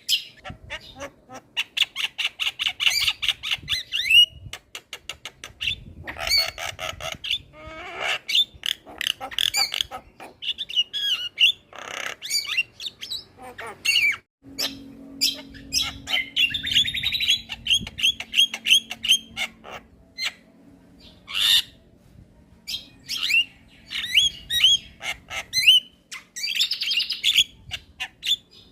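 Javan myna (jalak kebo) singing in bursts of fast rattling trills and sharp squawking calls, with short pauses between phrases.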